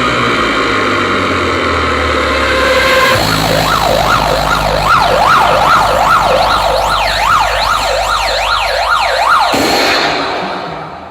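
Siren sound effect played loud through a big sound-system rig. It opens with stacked falling tones over heavy bass. About three seconds in it switches to a fast up-and-down yelp, about two cycles a second, which cuts off about a second before the end.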